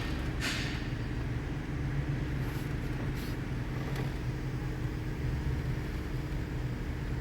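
Nissan Pathfinder V6 engine idling with a steady hum, with a brief hiss about half a second in.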